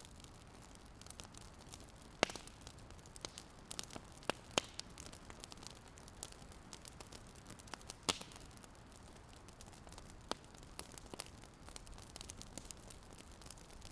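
Wood fire crackling: a faint steady hiss with irregular sharp pops and snaps, the loudest about two seconds in and again about eight seconds in.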